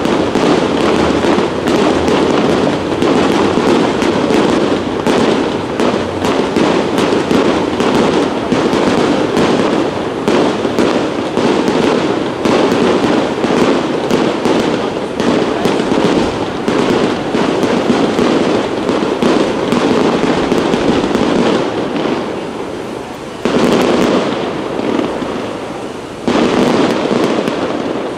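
Aerial fireworks display: shells bursting in a dense, continuous barrage of bangs and crackling. The barrage thins out twice near the end and each time comes back suddenly at full strength.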